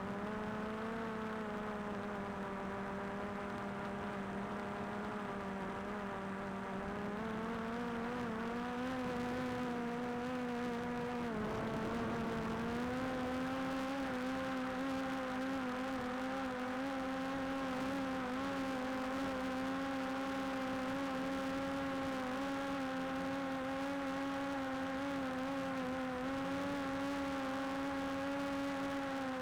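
DJI Air 2S quadcopter's propellers whining steadily while it hovers. The pitch steps up about a quarter of the way in, dips briefly before the middle, then holds higher as the motors speed up.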